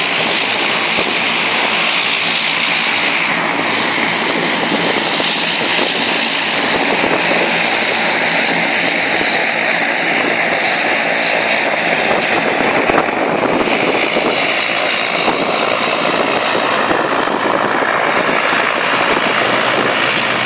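Jet airliner engines running, a loud, steady noise with a strong hiss in the upper range.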